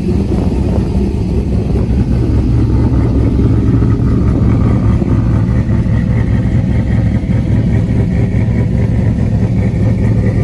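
Cammed 5.3-litre V8 idling steadily through an exhaust that has blown a big hole, so it runs loud and raw.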